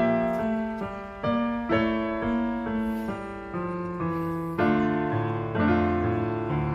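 Background piano music, a slow series of sustained notes and chords.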